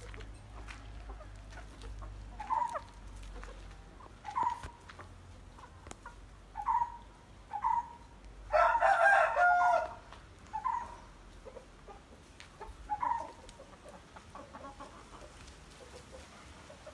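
Parrot Beak Aseel chickens calling: a run of short single clucks a second or two apart, and about halfway through one longer, louder rooster crow.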